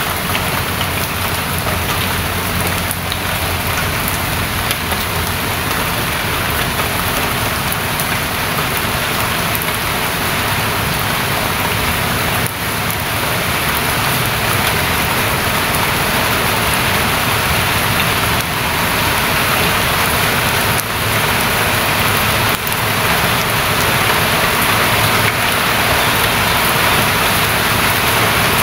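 Steady rain falling, a continuous hiss that grows a little louder near the end.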